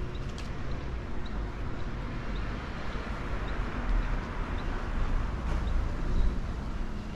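City street ambience: traffic noise over a steady low rumble, swelling in the middle as a vehicle passes, with a faint short high chirp repeating about once a second.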